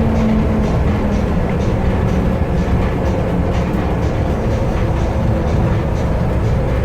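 Las Vegas Monorail train running between stations, heard from inside the car: a steady low rumble with a faint steady hum in it.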